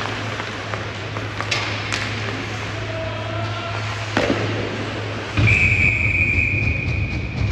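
Ice hockey play with a few sharp clacks of sticks and puck, then a referee's whistle blown in one steady blast of about two seconds in the second half.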